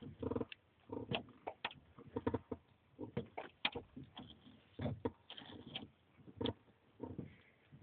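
Truck pedals being pumped hard by a bare foot: an irregular run of clunks and squeaks from the pedal arms, several in quick succession at times.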